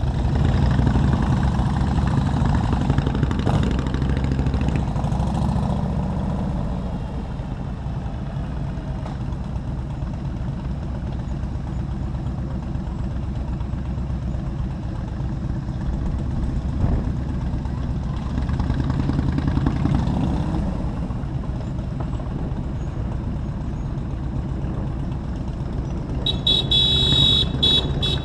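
Motorcycle engine running and wind rushing while riding in city traffic, a steady low rumble that eases for a while mid-way. Near the end a vehicle horn sounds with short, high, repeated blasts.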